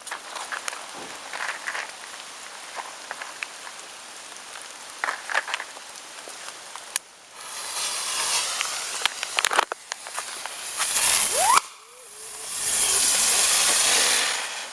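Three small ground fireworks going off one after another: scattered crackles and fizzes, then three loud bursts of hissing spray, the second ending in a short rising whistle.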